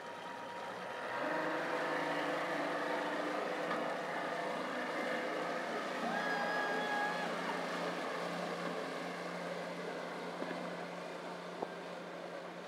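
Speedboat engine running steadily. It grows louder about a second in, then slowly fades.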